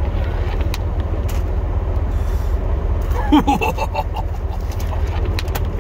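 Plow truck's engine running with a steady low rumble, with scattered light clicks and knocks of things being handled and a brief voice-like sound about three seconds in.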